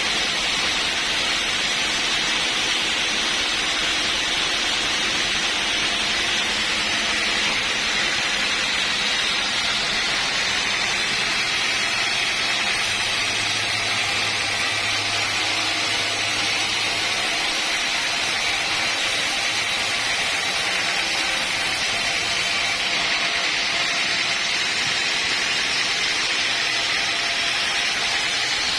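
Bandsaw sawmill running steadily, its blade cutting through a log with an even, unbroken rushing noise.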